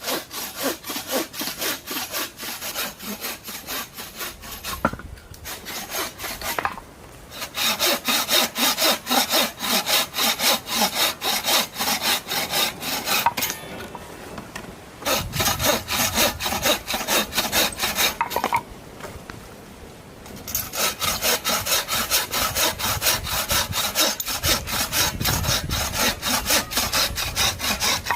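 A hand saw cutting through wood in quick back-and-forth strokes, in four runs with short pauses between them.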